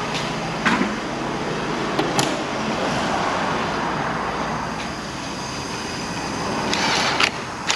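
Steady rushing background noise with a few scattered sharp clicks and knocks, and a short rattle near the end, from tools and parts being handled while a part is refitted and tightened.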